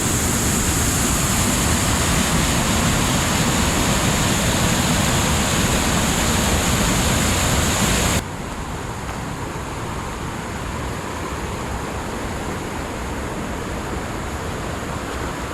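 Steady rush of falling or fast-flowing mountain water, with a sudden cut about 8 seconds in to a quieter, steady water sound.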